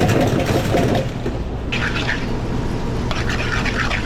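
Busy commercial kitchen line noise: a steady low hum under a loud rumbling clatter in the first second, then two short bright bursts of noise.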